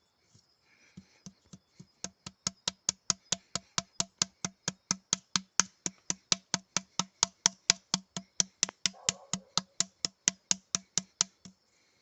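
A fast, even series of sharp knocks, about four or five a second, with a dull thud under each click, going on for about ten seconds and stopping suddenly near the end.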